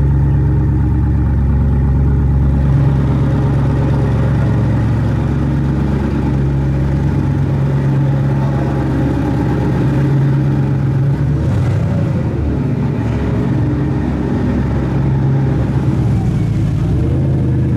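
Koenigsegg twin-turbo V8 running at idle with a deep, steady note, rising briefly in pitch near the end as the revs pick up.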